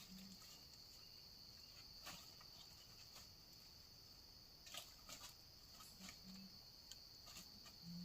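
Faint, steady high-pitched trill of crickets or other forest insects, with a few soft clicks now and then.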